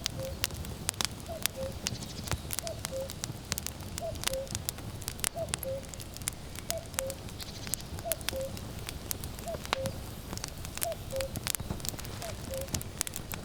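Common cuckoo calling its two-note, falling "cuck-oo" over and over, about once every second and a half. Under it, firewood burns with frequent sharp crackles and pops, over a low steady rumble of wind.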